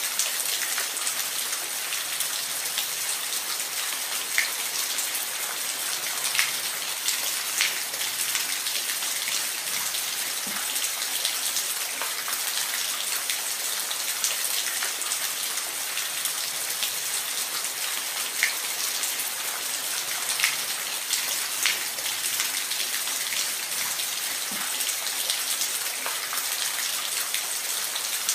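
Steady rain falling, with a constant hiss and scattered individual drops ticking on a hard surface.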